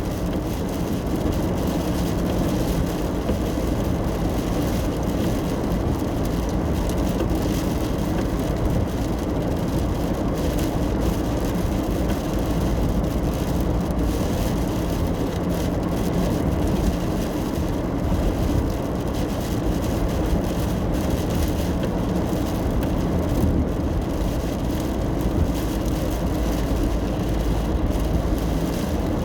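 Steady road noise inside a car driving on a wet road in the rain: a constant low engine and tyre drone with a hiss of water on top.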